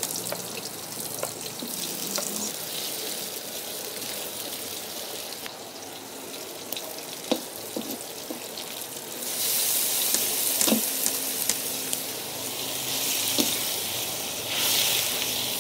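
Chopped chillies, shallots, garlic and tomato sizzling in hot oil in a wok as they are stir-fried with a spatula, with a few sharp clicks of the spatula against the pan. About nine seconds in, the sizzle gets louder as papaya leaves go into the wok and are stirred.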